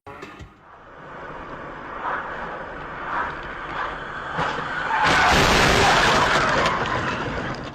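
Car driving on the road, with road and tyre noise building up. About five seconds in, a much louder harsh rushing noise sets in for roughly two seconds, typical of tyres skidding.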